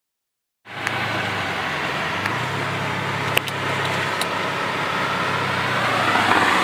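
Subaru WRX's turbocharged 2.5-litre flat-four engine running at low, steady revs, heard from inside the car's cabin, with a few light clicks. Near the end the sound grows a little louder and a higher tone glides up as the revs begin to rise.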